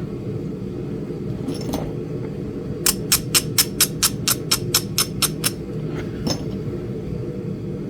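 Flint Ridge chert being worked with knapping tools: a quick run of about a dozen sharp, evenly spaced clicks, four or five a second, with a single click before and after. A steady low hum runs underneath.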